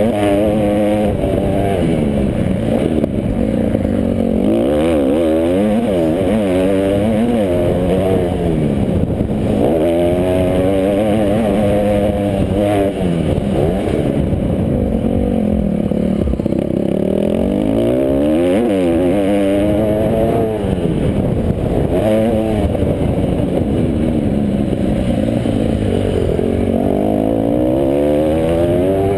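Several motocross bike engines revving hard and easing off over and over, their pitches rising and falling and overlapping as the bikes race.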